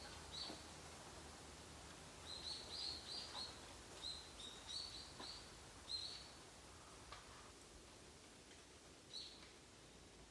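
A small bird chirping in short high notes, in quick runs of several, with a few faint clicks between the runs.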